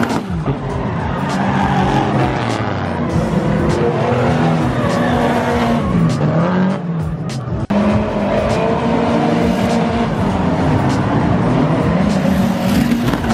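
Drift cars' engines revving hard, the pitch swinging up and down again and again, with tire squeal from the drifting. There is an abrupt break about halfway through.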